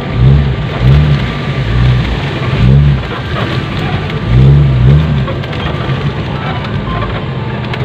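Off-road 4x4 engine heard from inside the cab, revving up and back down in several short surges while driving on a rough dirt track, over a steady rumble of tyres and body rattle.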